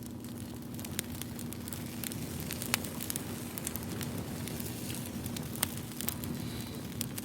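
Wood fire crackling, with sharp pops at irregular moments over a steady soft hiss.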